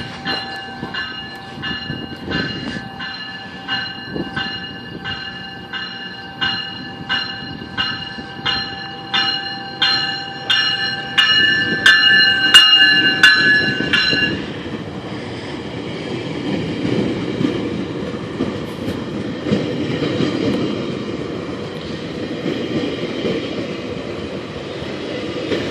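GO Transit commuter train's bell ringing, under two strikes a second, growing louder until it stops about fourteen seconds in. The train then rumbles past on the rails.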